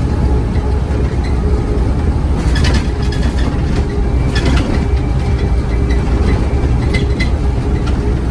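Scania OmniCity bus's diesel engine running with a steady deep rumble, with short bursts of rattling about a third of the way in, around the middle, and again near the end.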